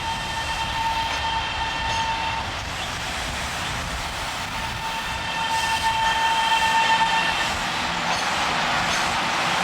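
Taiwan Railway EMU700 commuter train at the platform sounding two long, steady horn tones, the first ending about two seconds in and the second running from about five to seven and a half seconds in, over the train's running noise, which swells near the end.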